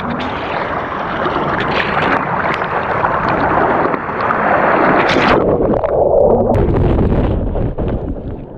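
Ocean shorebreak wave surging in and churning around at the waterline: a loud rush of water with splashes. About five seconds in, the hiss drops away and the sound turns muffled and deeper.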